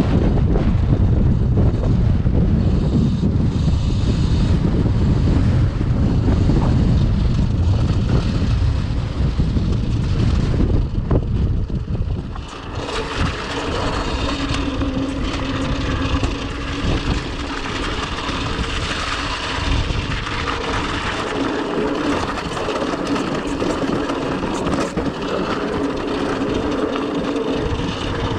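Wind buffeting the microphone for roughly the first twelve seconds. It then gives way to a steady whine and hiss, the Cake Kalk OR electric dirt bike's motor and drivetrain under way.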